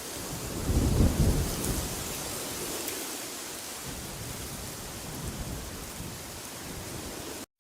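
Steady rushing wind with a strong low rumbling gust about a second in, easing back to a steady rush. The sound cuts out to silence for a moment near the end.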